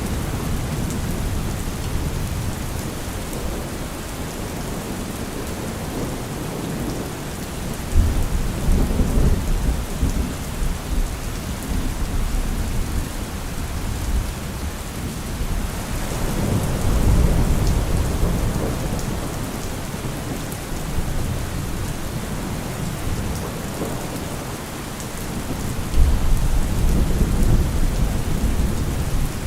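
Steady heavy rain with rolling thunder: deep rumbles swell about 8 seconds in, again around 16 to 18 seconds, and once more near the end.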